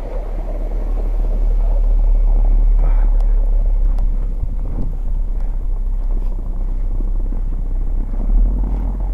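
A car driving slowly past on a snowy street, its engine and tyres giving a steady low rumble that grows louder over the first couple of seconds as it comes alongside.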